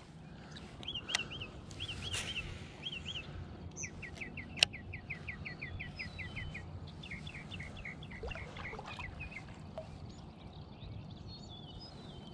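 Birds calling: a few quick high chirps, then a fast run of short repeated notes at about four to five a second, then more scattered notes, over a faint steady background. A single sharp click about four and a half seconds in.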